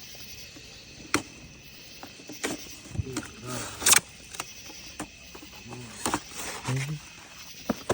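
Scattered sharp firework pops and cracks, the loudest about four seconds in, with indistinct voices between them.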